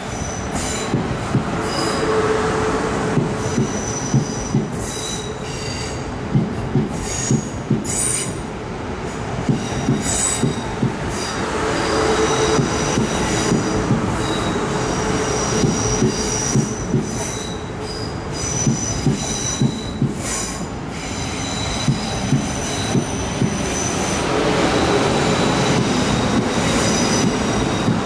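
Train running over the tracks with a continuous rumble, its wheels squealing in thin high tones that come and go and clicking irregularly over rail joints and pointwork.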